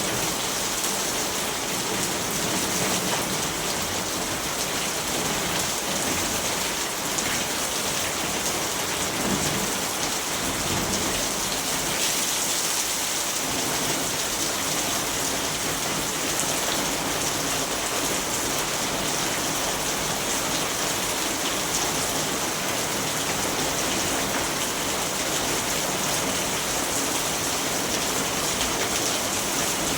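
Steady rain falling: an even, unbroken hiss of rainfall, brightest in the high range.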